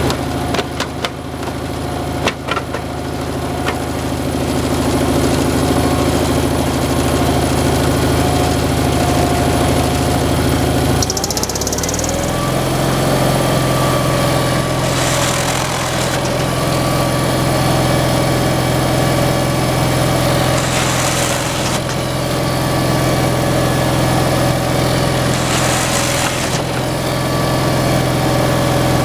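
Engine of a slab-wood kindling machine running steadily. About eleven seconds in it dips briefly, then speeds up and settles at a higher speed. Short hissy bursts come about every five or six seconds after that.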